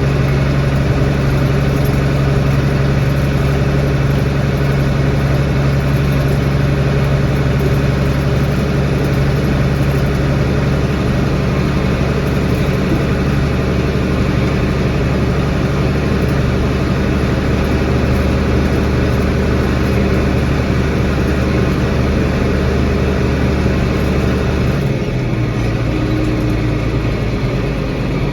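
Diesel tractor engine running steadily, its speed dropping slightly about 25 seconds in.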